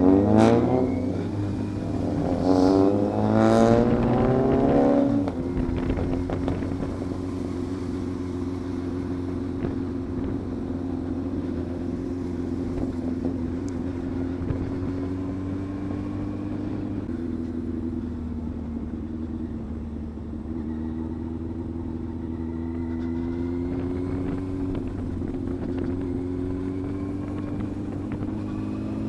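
Yamaha FZS600 Fazer's inline-four engine revving up through the gears, its pitch climbing three times in the first five seconds, then running at a steady cruising speed.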